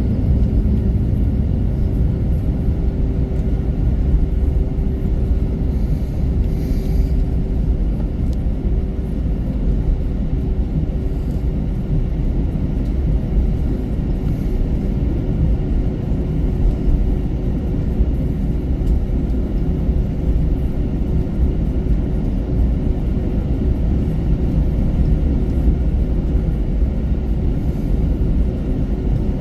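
Steady low cabin rumble inside an Airbus A321-200 with its engines running on the ground, with a faint steady hum that fades out about a third of the way through.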